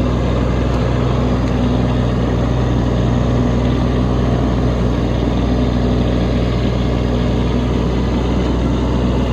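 Kubota B2601 compact tractor's three-cylinder diesel engine running steadily at a constant speed while clearing snow.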